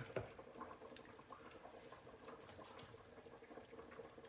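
Near silence: faint room tone with a steady low hum and a few soft ticks.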